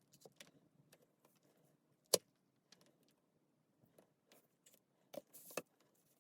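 Scattered light clicks and clinks of small metal parts and tools being handled, with one sharp knock about two seconds in and a quick cluster of clicks near the end.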